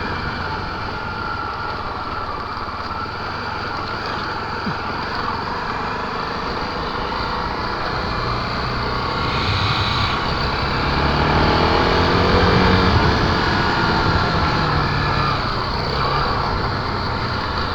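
Honda XR250 Tornado's single-cylinder four-stroke engine running while the bike is ridden, with a steady rush of noise over it. The engine gets louder and rises in pitch about halfway through, then eases off again.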